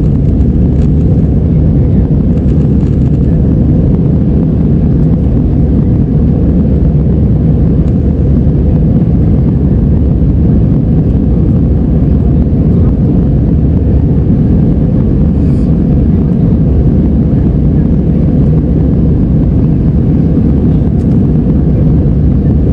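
Airliner cabin noise: a steady, low rumble of jet engines and rushing air, unchanging throughout.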